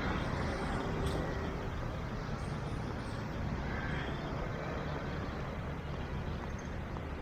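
Steady road traffic noise from vehicles running along a busy street, with no single vehicle standing out.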